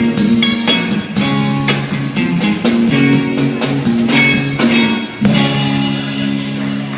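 A band playing a blues-rock song with guitar and drums to a steady beat, in an instrumental passage with no singing.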